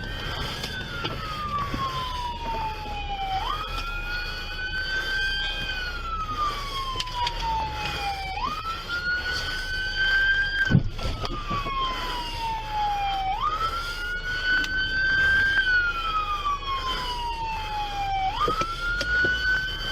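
Emergency vehicle siren wailing, each cycle a quick rise and a long slow fall, repeating about every five seconds, with a second, higher siren sweeping alongside. A single sharp knock about halfway through.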